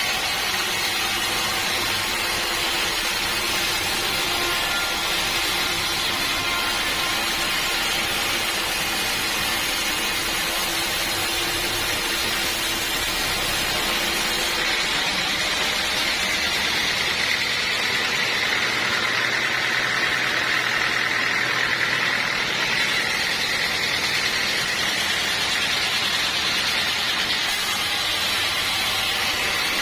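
Sawmill machinery running steadily, a continuous mechanical noise with a higher whine that strengthens about halfway through.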